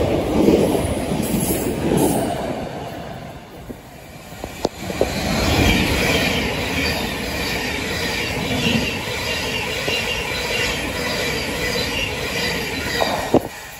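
Thameslink Class 700 electric trains. For the first couple of seconds one train runs on loudly, then the sound falls away. After a few sharp clicks of wheels over rail joints, a second Class 700 passes close by with a steady rush of wheel-on-rail noise and a high whine, which cuts off abruptly at the very end.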